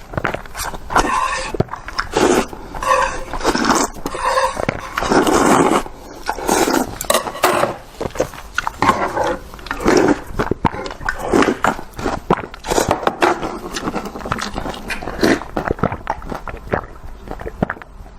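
Close-miked eating of Indomie instant noodles: wet chewing and slurping in quick, irregular bursts.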